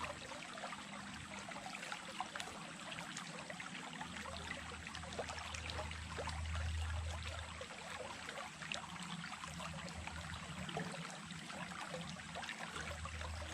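Small stream running: a steady rush of water with many small splashes and drips through it, under a low rumble that comes and goes.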